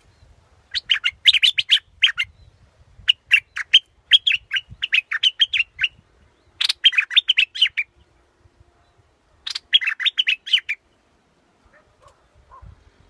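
Bulbul song: four bursts of rapid, bubbly chirps, each a second or two long, with short pauses between them. It is a recorded call of the kind played to lure wild birds.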